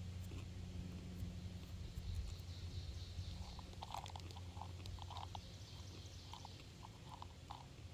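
Outdoor nature ambience over a steady low hum, with faint high calls and ticks in the background; from about three seconds in, an animal gives a run of about a dozen short, separate calls that stop shortly before the end.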